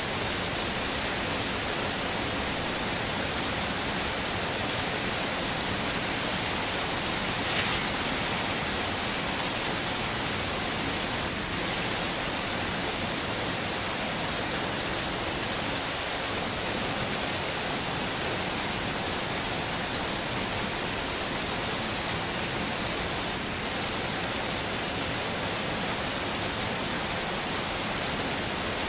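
Heavy rain falling steadily as a dense, even hiss, with a brief dip in the hiss twice.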